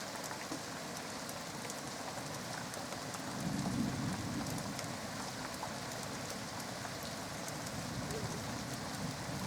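Steady rain falling, with individual drops ticking close by. A low rumble of thunder swells about three seconds in, is loudest around four seconds, then keeps rolling more quietly.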